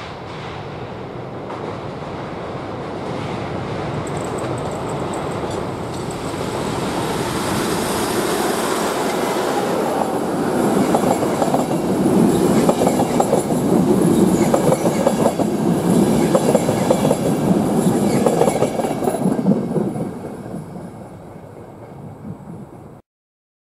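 Passenger train of coaches passing close by: the rumble and clatter of wheels on the rails swells as it approaches and is loudest while the coaches roll past. It fades near the end and then cuts off abruptly.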